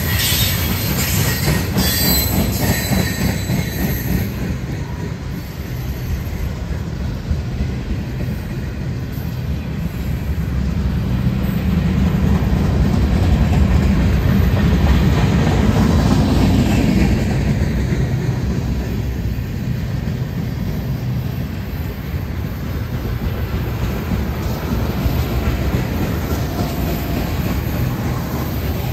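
A long freight train's cars rolling past close by: steel wheels rumbling and clacking steadily on the rails, swelling louder about halfway through.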